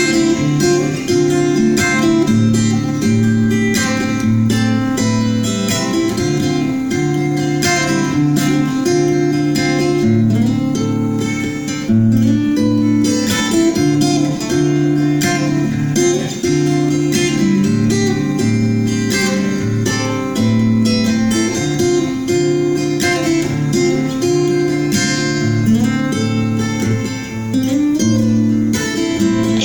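Instrumental break of a pop song: a guitar-led backing with plucked and strummed acoustic guitar over a steady repeating chord pattern, without vocals.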